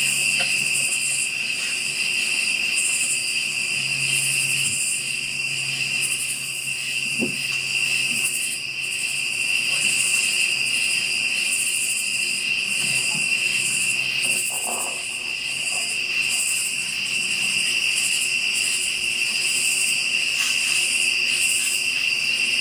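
Chorus of night insects chirring steadily without a break, a constant high trill with a faster pulsing shimmer above it.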